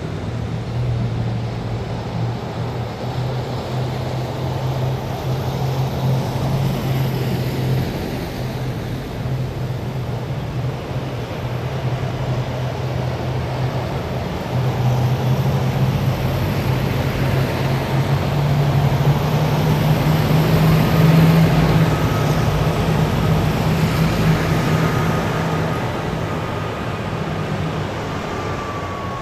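A column of heavy military vehicles driving past with a steady low engine drone. It swells to its loudest about two thirds of the way through as one vehicle passes close, then eases off.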